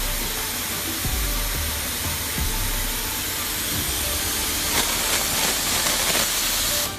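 Steady loud hissing noise over background music, cutting off suddenly at the very end.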